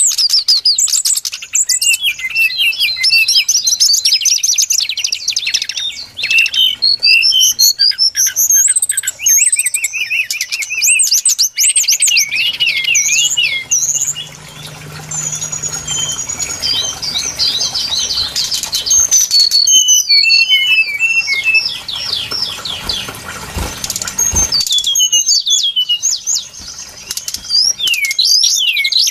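Brown-chested jungle flycatcher song: a fast, unbroken stream of high chirps, short whistled glides and trills, from a bird-lure recording. A faint low hum sits behind the song through the middle stretch.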